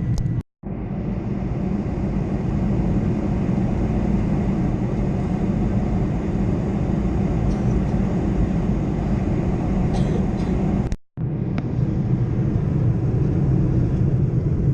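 Steady low rumble of a Boeing 747-400's engines and airflow heard inside the passenger cabin, with two brief cut-outs to silence, about half a second in and about eleven seconds in.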